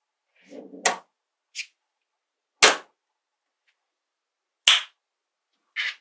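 Small magnetic balls clicking sharply together as they snap into place, four separate clicks at irregular intervals, the loudest about two and a half seconds in, with a soft rustle of the balls being handled near the start and the end.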